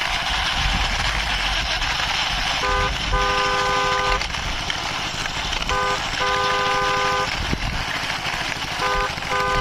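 A car horn honking three times, about three seconds apart, each a short toot followed by a longer one of about a second. Under it runs a steady engine-like rumble and hiss.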